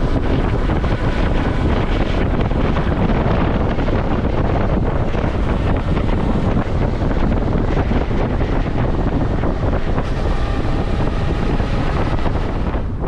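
Steady wind rushing over the microphone of a Suzuki V-Strom motorcycle at riding speed, with the bike's engine and road noise running underneath.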